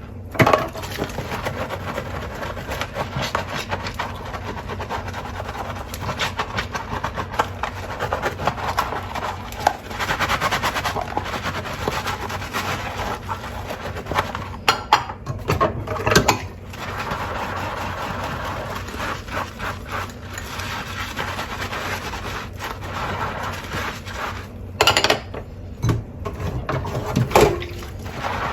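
Running tap water with dishes and utensils clinking, knocking and scraping as a large load is washed by hand in a sink.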